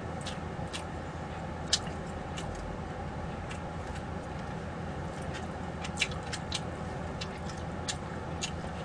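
Eating sounds: scattered small sharp clicks and smacks, irregular and about a dozen in all, over a steady low hum. The loudest come about two seconds in and about six seconds in.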